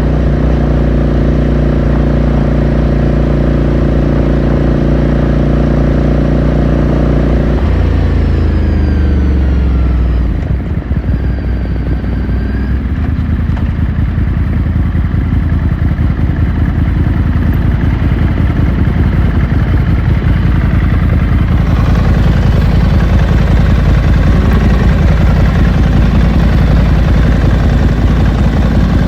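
2018 Ducati Scrambler Sixty2's air-cooled L-twin engine and exhaust, heard onboard. It runs at steady revs for the first several seconds, then the revs fall off over a couple of seconds as the bike slows. It settles into a low, pulsing run that grows louder again about three-quarters of the way through.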